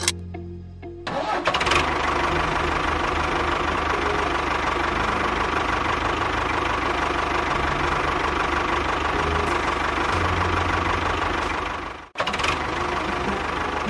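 Engine starting about a second in, then running steadily with a rapid knocking beat. It cuts out for a moment near the end and picks straight up again.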